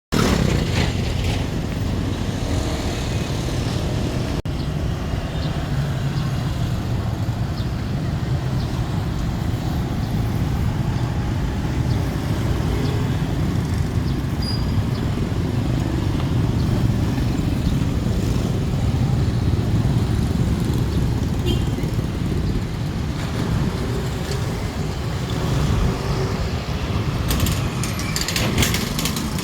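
Steady road traffic at a level crossing, with motorbikes and cars going by. A short run of sharp rattling clicks comes near the end.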